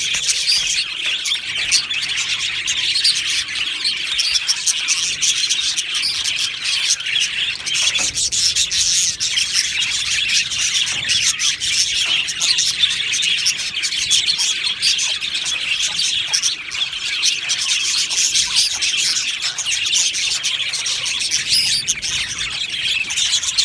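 A flock of budgerigars chirping and chattering continuously, many birds at once in a dense, steady wash of high chirps.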